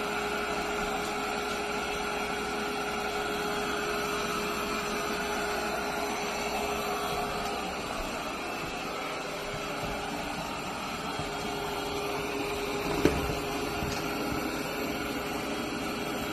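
eufy L60 robot vacuum running steadily, its motor and suction making a hum with a held tone over a hiss. There is one sharp knock about thirteen seconds in.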